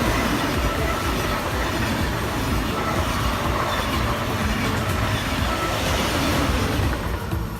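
A train passing, with steady loud rolling and running noise that drops away near the end.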